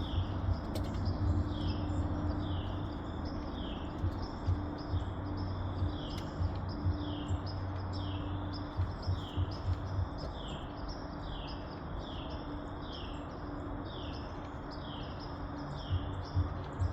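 A bird repeats a short, falling chirp about once a second, over a steady low hum with uneven low bumps.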